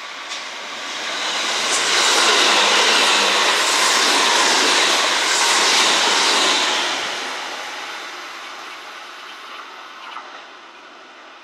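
Kintetsu electric train passing through the station, its wheels running on the rails. The sound swells over about two seconds, holds loud for about four, then fades away.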